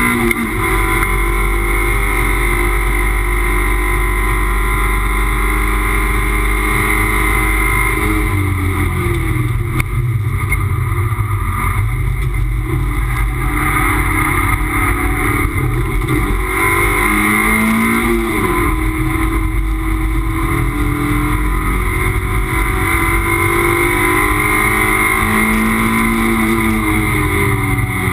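Toyota MR2 race car's engine under hard racing load, heard from inside the cabin. Its pitch drops and climbs again a few times, around a third of the way in, past the middle and near the end, as the car brakes, changes gear and accelerates out of corners.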